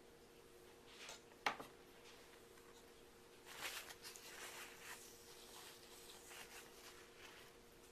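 Quiet handling sounds: two soft knocks about a second in, then a brief rustle, over a faint steady hum.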